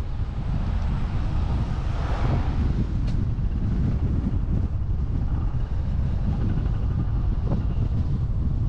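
Wind buffeting the camera microphone on a moving bicycle, a steady low rumble, with a brief swell of hiss about two seconds in.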